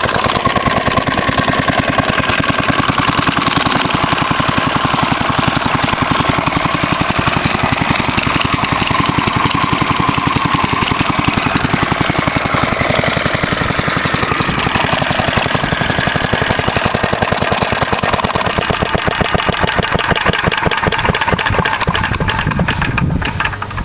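Fairbanks Morse Z style D single-cylinder engine running with rapid, even firing beats. In the last couple of seconds the beats spread out and the sound falls away as it winds down.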